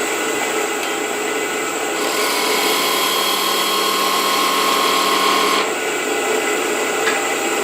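Wood lathe running with a rotary texturing tool held against the spinning lid, its cutter chattering with a ratchet-like buzz. From about two seconds in until past the fifth second the tool bites harder and the sound grows louder, with a steady high whine.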